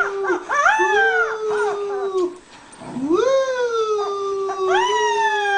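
Dog howling: long drawn-out howls held at a steady pitch, the second beginning about three seconds in.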